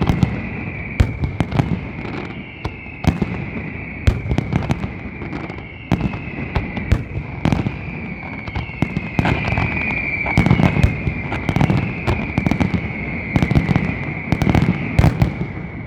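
Fireworks display going off without a break: rapid sharp bangs and crackles over a constant low rumble, with several whistling shells whose pitch falls as they go.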